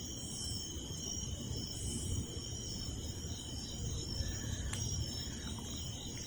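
A steady chorus of night insects such as crickets, trilling at several high pitches, over a faint low rumble.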